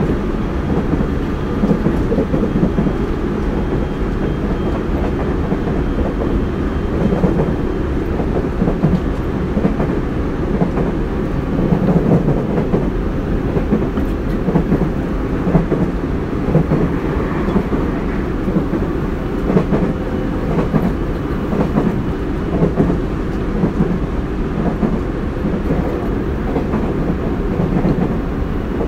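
Interior running sound of a Tobu 30000 series electric multiple unit motor car travelling at speed: a steady rumble of wheels on rail, with a low clatter recurring every second or two over track joints.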